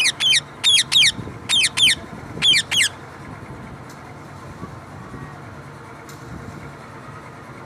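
Pet parrot squawking: about seven shrill screeches in quick pairs over the first three seconds, each sweeping sharply down in pitch, then it falls silent.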